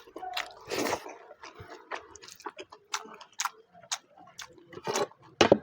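Close-up eating sounds of a person chewing rice and mutton curry: irregular wet smacks and clicks of the mouth, with a louder burst about five and a half seconds in.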